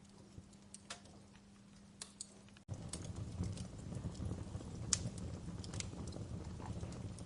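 Fireplace crackling: scattered sharp pops and snaps over a faint hum. About two and a half seconds in, the sound cuts abruptly to a louder low rumble of fire with more frequent crackles.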